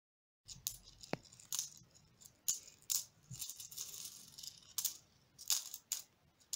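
Coins jingling and clinking together in an irregular run of sharp clinks, starting about half a second in.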